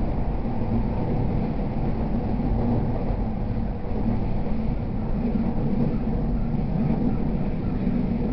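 Steady running noise heard inside the car of a JR East E231 series 0-番台 electric commuter train: a continuous low rumble of wheels on rail and body noise.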